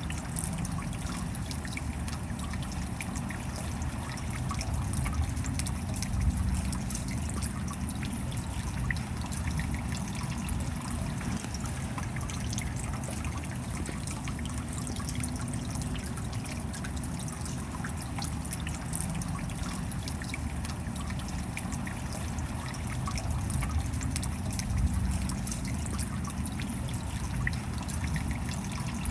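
Steady rain falling, with many small drop impacts pattering.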